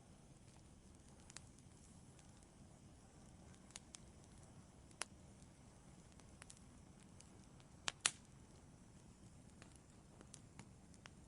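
Wood fire in an outdoor fireplace crackling faintly, with scattered sharp pops over a low steady hiss, the loudest a double pop about eight seconds in.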